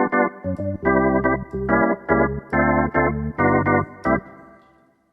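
Organ tone on a Casio AiX digital keyboard, played as short repeated chords over a bass line. The last chord fades away near the end.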